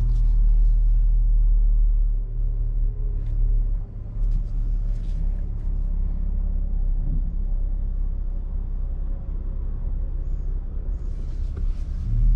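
Ford F-150 Raptor's twin-turbo V6 running at low revs in normal exhaust mode, a steady low rumble. There are a few faint clicks a few seconds in.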